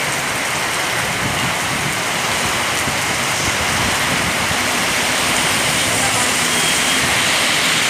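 Heavy rain pouring down steadily, a continuous even hiss.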